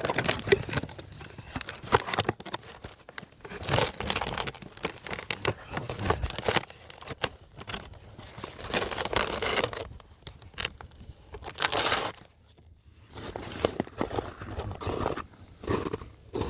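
Irregular rustling, crunching and scraping from gear being handled close to the microphone, in clusters every few seconds with sharp clicks among them.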